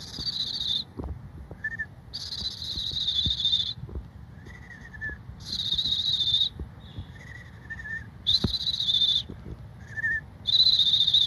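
Human whistled imitation of a red-winged blackbird's song, given five times. Each call is a short lower whistled note followed by a long, high, trilling whistle with a rapid warble, made by adding a uvula gargle to the whistle.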